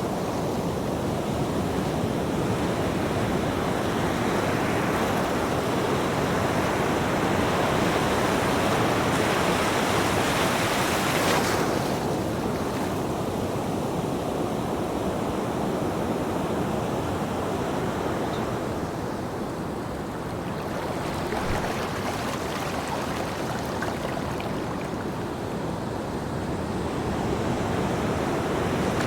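Ocean waves: a continuous rushing surf that swells to a peak about eleven seconds in, eases off, and builds again near the end.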